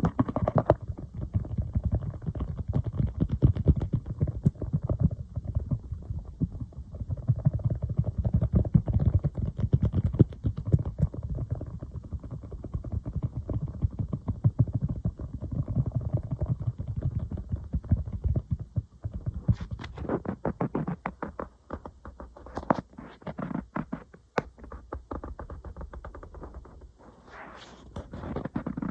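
Fingers tapping rapidly on an iPad, a dense run of soft, low taps. About 19 seconds in the tapping turns sparser and sharper, with crisper clicks.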